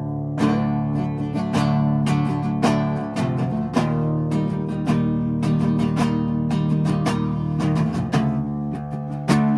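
Acoustic guitar strumming chords in a steady rhythm, many strokes a second, with no singing.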